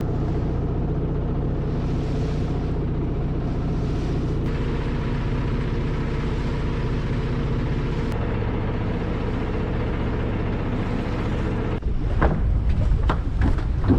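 Boat engine running steadily at constant speed, its tone shifting slightly about eight seconds in. Near the end it grows louder and irregular sharp knocks come in.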